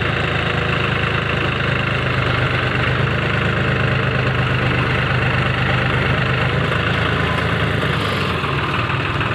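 Tractor diesel engine idling steadily at a low, even pitch.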